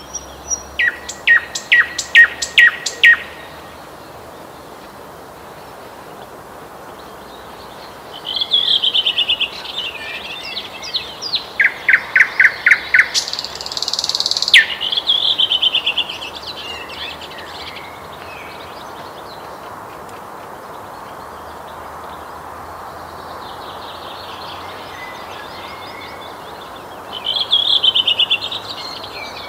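Nightingale singing in separate phrases of rapid clicks, fast trills and loud pulsed notes, with pauses of several seconds between phrases, over a steady faint background hiss.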